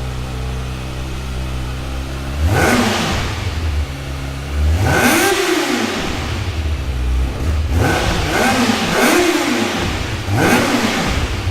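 Kawasaki ZX-6R inline-four engine idling, then blipped about five times on the throttle. Each rev rises sharply and falls back to idle, with two quick blips close together near the end.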